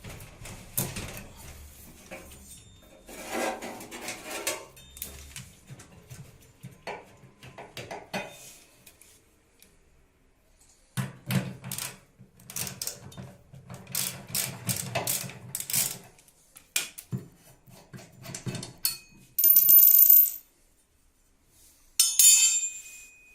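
Hand tools and metal parts clinking, knocking and scraping in irregular bursts while a washing machine is taken apart to replace its drum bearings. A short loud hiss comes about twenty seconds in, followed by a brief metallic ringing clatter.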